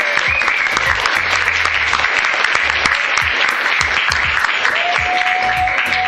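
Clapping, a dense crackle of many hands, over background music with a steady low beat; a held note joins near the end.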